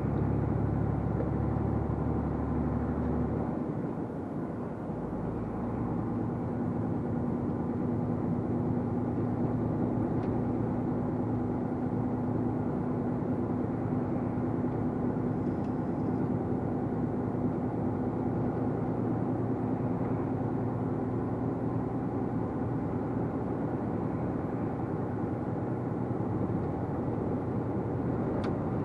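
Truck engine and road noise heard from inside the cab while driving, a steady drone with a brief dip in level about four seconds in.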